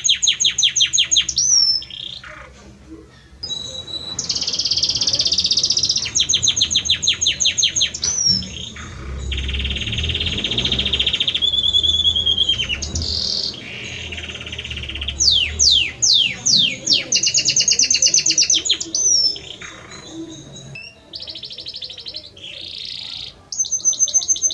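A male domestic canary of the Belgian song type singing its courtship song to a female. The song is high-pitched and made of rapid rolling trills and fast repeated-note phrases, some ending in quick rising or falling glides, with brief gaps between phrases.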